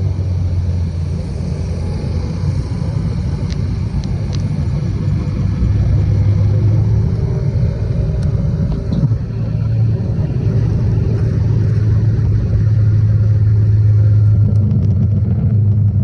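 Motorcycle running at a steady pace under way, a continuous low engine drone with a rumbling noise over it, getting a little louder about six seconds in and again near the end.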